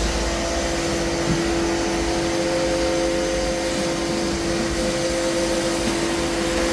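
A steady whirring motor noise with a constant hum running through it.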